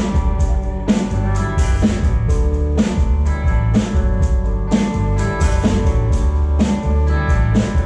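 Live band playing a song: guitar, bass and drum kit, with a steady beat.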